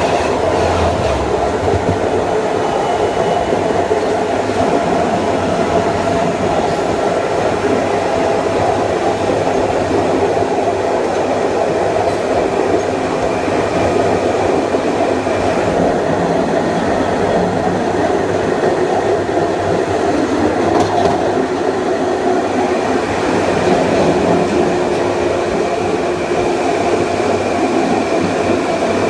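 Kawasaki M9 electric multiple unit running along the line: a steady rumble of wheels on rail mixed with the whine of its Mitsubishi (MELCO) AC traction motors and IGBT-VVVF inverter. A faint high steady tone drops out about halfway through and comes back a few seconds later.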